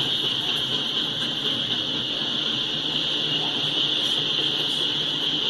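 Double-stack freight train rolling past: a steady, continuous rail noise with a high-pitched hissing band over a low rumble.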